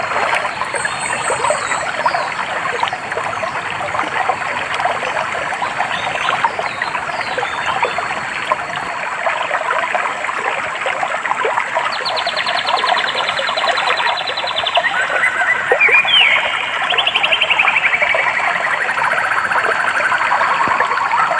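A stream trickling steadily over stones, with small birds calling over it: short high chirps in the first few seconds, a rapid even trill about halfway through, then a run of trills stepping down in pitch.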